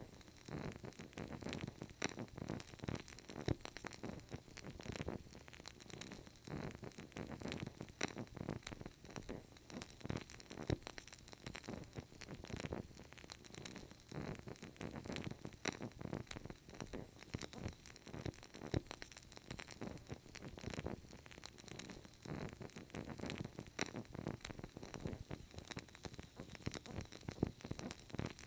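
Burning candle crackling: a steady stream of small, irregular clicks and pops over a soft low rustle.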